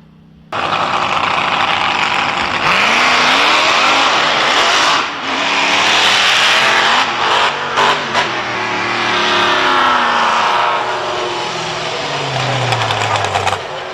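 High-powered racing vehicle engine at full throttle, cutting in abruptly about half a second in, revving up and down, then falling in pitch near the end as it winds down.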